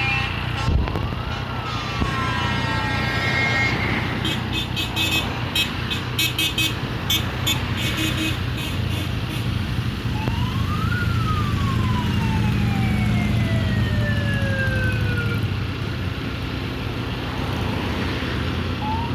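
A siren wails twice over the steady hum of idling vehicle engines. Each wail rises quickly and then falls away slowly, and a third begins near the end.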